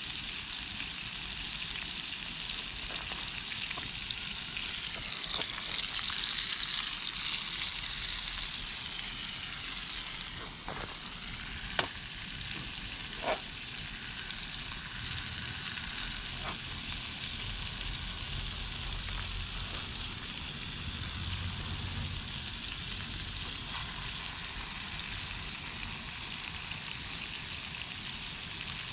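Formed meat sizzling as it grills over a campfire: a steady hiss that swells a few seconds in, with two sharp pops about a second and a half apart near the middle.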